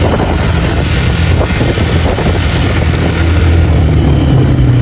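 Four-wheeler (ATV) engine running while it is ridden: a steady low engine note that steps up slightly in pitch about four seconds in.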